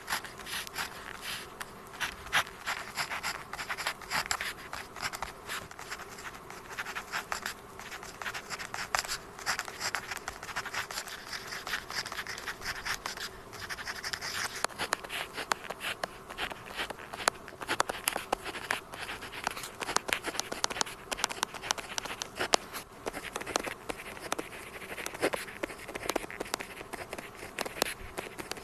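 Pen tip writing on paper, a continuous run of quick scratchy strokes and small taps.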